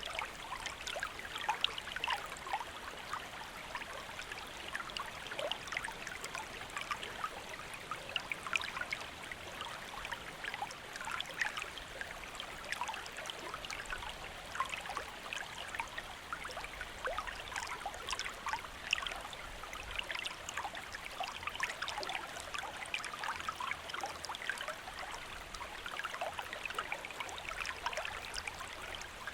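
Shallow stream flowing steadily, with continuous babbling and many small splashes and trickles over the rocks.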